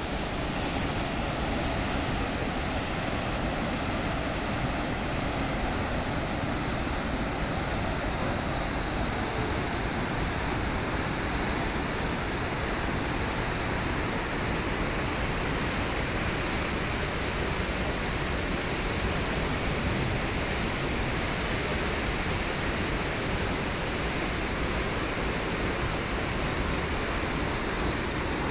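Steady, even rush of water from the Perunthenaruvi waterfall on the Pamba river.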